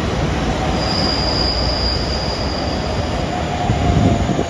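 A train running past with a loud, steady rumble, and a high, steady squeal from its wheels on the rail from about one second in until about three seconds in.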